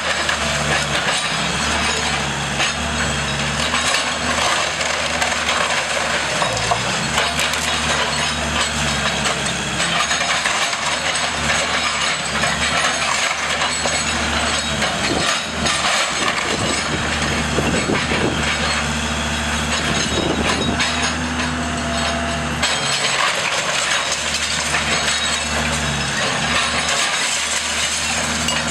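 A heavy demolition machine's diesel engine runs and changes pitch as it works. Over it comes continuous cracking, splintering and crashing of the house's structure as it is torn down.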